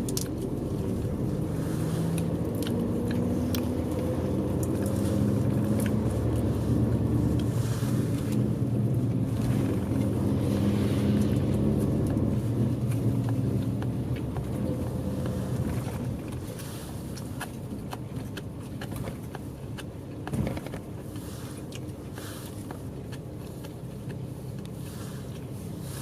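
Bus engine heard from inside the cabin, its note rising as the bus pulls away, running loudest for the first half, then easing off and running quieter. A single knock about four-fifths of the way through.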